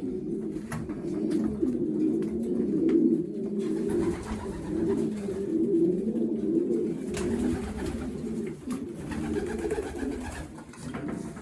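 Racing pigeons cooing together: a continuous mass of overlapping low coos, with a few faint clicks.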